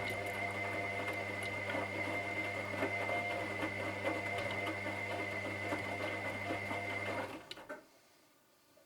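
Washing machine running: a steady motor hum and high whine over a busy, rattling, clicking texture. About seven seconds in it stops within half a second, with a couple of last clicks.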